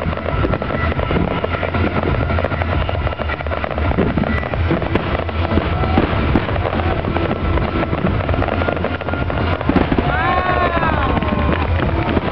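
Aerial fireworks bursting and crackling in a dense, continuous barrage. About ten seconds in, a brief pitched tone rises and falls over the crackle.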